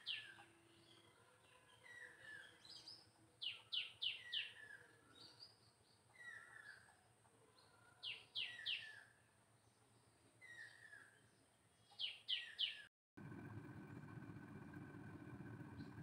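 Birdsong: phrases of three or four quick falling whistled notes about every four seconds, with softer chirps between. About thirteen seconds in the birds cut off and a steady low mechanical hum with a faint steady whine takes over.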